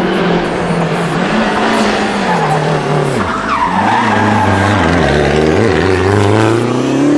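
Rally car engine coming off the throttle, its note dropping about three seconds in as it slows for a corner, with tyres skidding, then climbing steadily as it accelerates away near the end.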